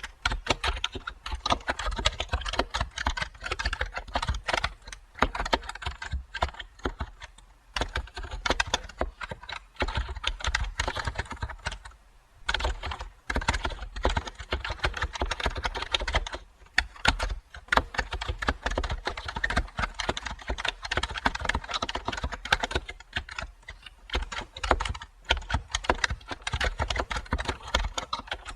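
Computer keyboard typing: a steady stream of keystrokes with a few short pauses.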